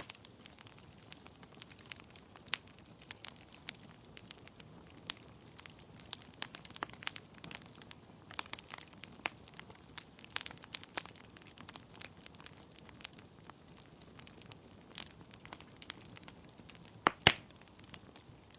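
Wood fire crackling in a fireplace: irregular sharp pops and snaps from burning logs over a soft hiss, with the loudest cluster of pops near the end.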